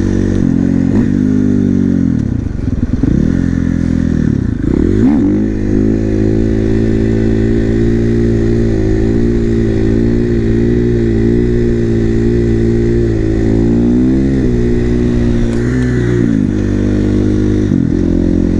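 A 450 supermoto motorcycle's single-cylinder four-stroke engine under way: it rises and falls in pitch through the first five seconds as the rider works the throttle, holds a fairly steady cruise, then drops off and picks up again near the end.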